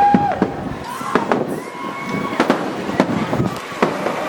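Fireworks going off in quick succession: many sharp bangs and pops, with a few steady whistles held briefly.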